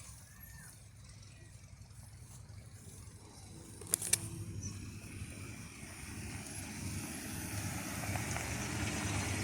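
A vehicle engine running with a steady low rumble that slowly grows louder, with two sharp clicks about four seconds in.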